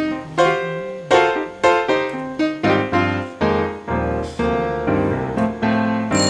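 Background piano music: a melody of struck notes at a steady, moderate pace, each note ringing and fading.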